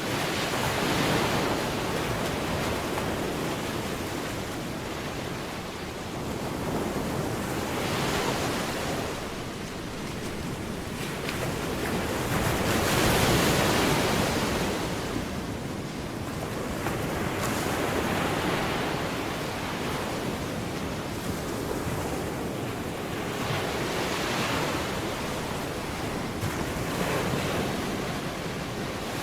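Waves washing ashore, a rushing noise that swells and fades every four to six seconds, with wind on the microphone.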